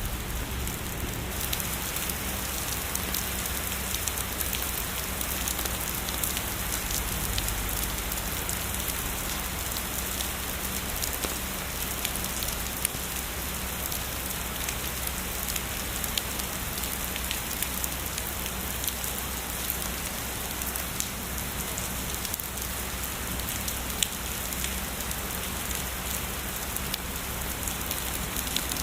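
Steady heavy rain falling on a surface, a dense even patter with individual drops ticking sharply here and there.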